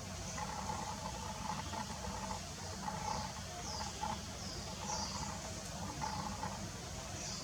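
Steady low rumble of strong wind on the microphone, with small birds chirping: several short, falling high-pitched chirps and faint repeated mid-pitched notes.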